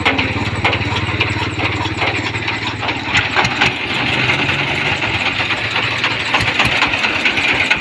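A vehicle engine running with a steady low rumble and a hissing, rattling layer above it. The rumble is strongest for the first few seconds, then turns into uneven pulses.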